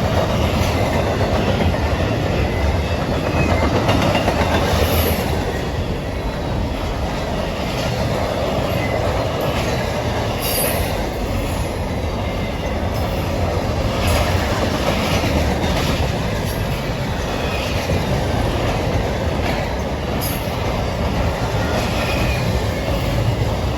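Train cars rolling steadily past on the track, a continuous rumble with wheel clatter over the rail joints and brief high wheel squeals now and then.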